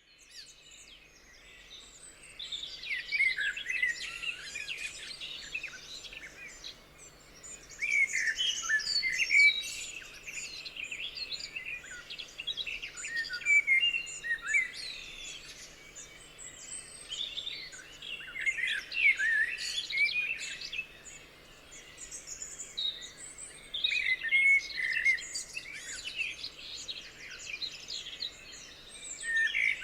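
Birdsong: chirps and quick warbled phrases coming in bouts of a few seconds, with brief lulls between them. The song fades in over the first couple of seconds.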